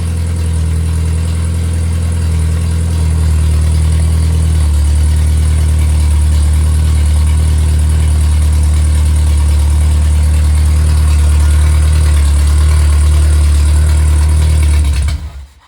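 Rebuilt MG Midget 1500 four-cylinder engine running steadily on a test stand, its revs lifting slightly a few seconds in, then cutting off near the end.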